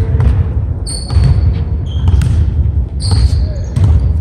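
Continual low thudding with short, high squeaks now and then, about a second in, about three seconds in and again near the end.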